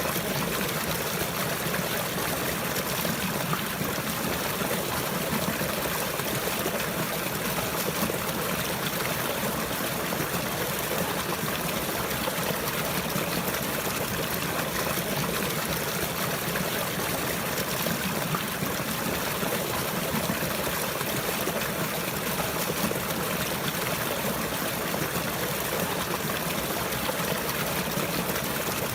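Steady trickling of flowing water, like a stream running, even and unbroken throughout.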